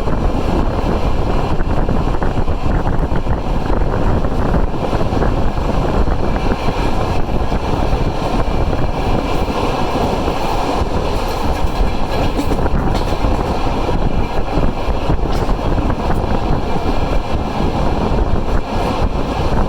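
Passenger train behind a TEP70 diesel locomotive, heard from on board while under way: a steady, loud rumble of wheels on the rails.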